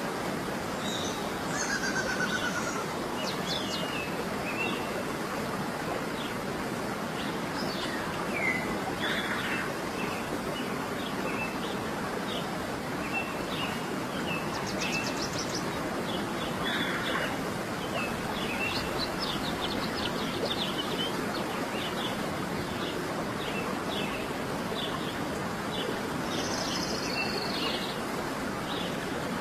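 Many birds chirping and trilling over a steady rushing background noise, with clusters of calls around the middle and near the end.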